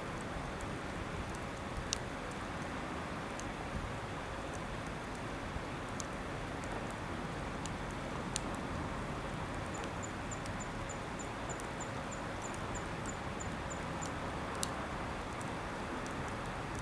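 Wood campfire burning, with a steady rush and scattered sharp crackles and pops. Near the middle comes a short run of quick, faint, high chirps.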